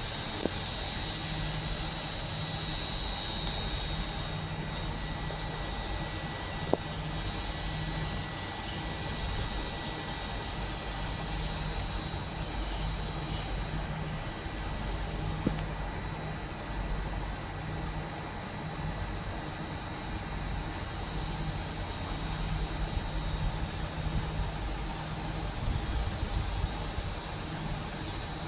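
Trenitalia regional train departing, a steady mechanical drone with several high whining tones over a low rumble that swells and fades about once a second. A few faint clicks sound along the way.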